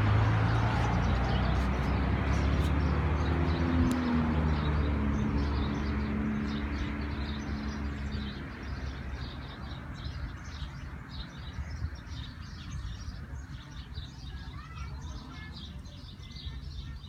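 A vehicle engine running with a low hum that fades away over the first eight seconds or so. After that, small birds chirp on and off.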